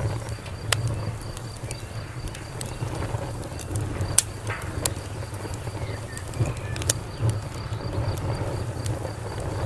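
Wood fire crackling: a low steady rumble of flames with scattered sharp pops, the loudest about four seconds in.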